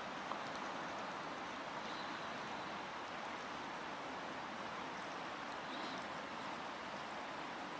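A river flowing: a steady, even rush of running water, with a few faint high ticks over it.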